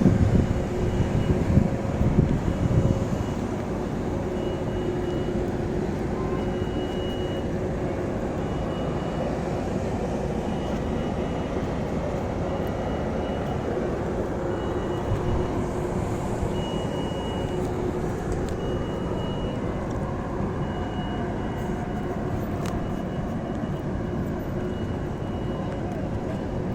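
Steady mechanical rumble with hiss, louder for the first few seconds, with a faint high beep that comes and goes.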